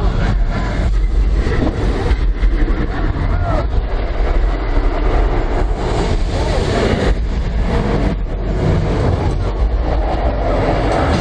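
Multi-car studio tour tram driving along, a steady low rumble.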